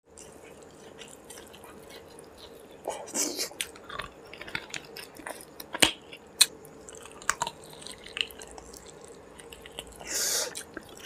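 Close-miked eating sounds: wet chewing and sharp lip smacks and clicks as rice mixed with curry is eaten by hand. There are two short hissing sounds, about three seconds in and near the end.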